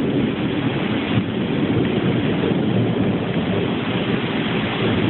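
Rain falling steadily during a thunderstorm, with a low rumble of thunder.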